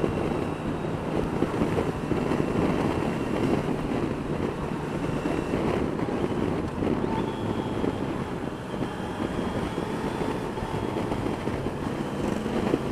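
Yamaha Niken GT's three-cylinder engine running steadily while riding, mixed with heavy wind rush over the microphone.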